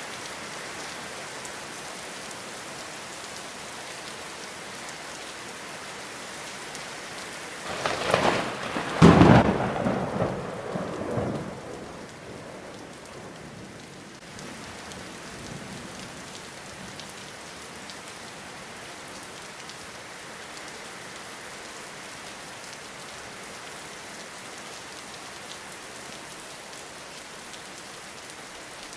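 Steady rain falling, with one loud crack of thunder about eight seconds in that rumbles on for about three seconds before the rain alone is left.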